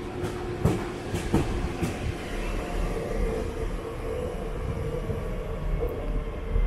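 Electric S-tog suburban train moving along the platform: its wheels click sharply over rail joints three times in the first two seconds, then a steady hum carries on.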